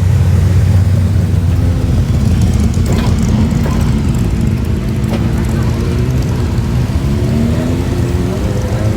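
Car engines running at low speed as cars move past; one engine's pitch climbs near the end as it picks up revs.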